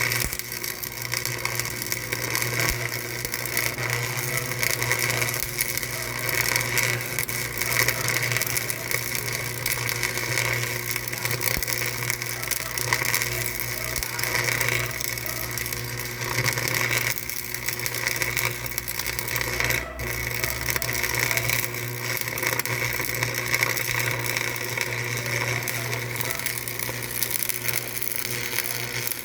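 A machine running steadily: a continuous mechanical noise with a constant low hum under a hissing, whirring upper layer, with no break or change in pace.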